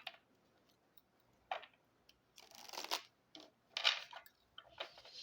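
Playing cards being shuffled and handled, a few short papery rustles and riffles.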